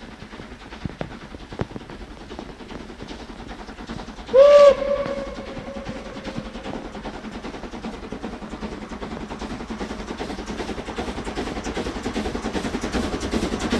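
Steam whistle of the DB class 023 locomotive 023 058-1, one short blast about four seconds in, the loudest sound. After it the train's running sound grows steadily louder as it approaches, with a fast regular beat near the end.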